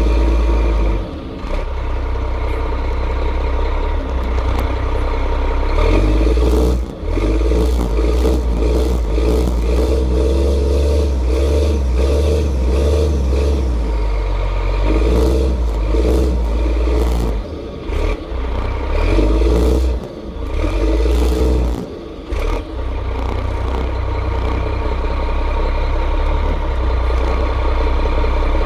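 Cummins M11 inline-six diesel of a 1998 Gillig Phantom high-floor transit bus running under load with a deep, throaty exhaust rumble. The engine note rises and falls, with several brief drops in level along the way, amid clattering and rattling.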